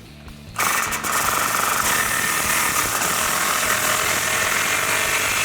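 Power impact wrench running steadily, hammering an exhaust clamp nut tight with a 15mm socket. It starts suddenly about half a second in.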